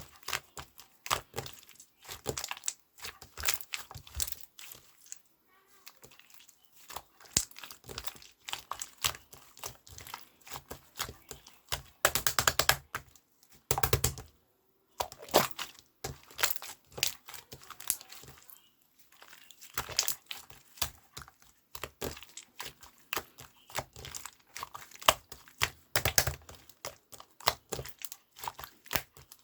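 Irregular crinkling and crackling: a dense run of small clicks with a few short pauses.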